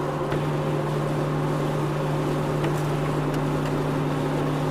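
Steady road and engine noise inside a moving car on a wet road, with a constant low hum and a few faint clicks.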